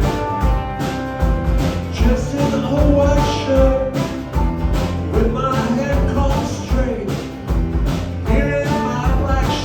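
Live rock band playing a mid-tempo song with a steady drum beat under guitars and bass.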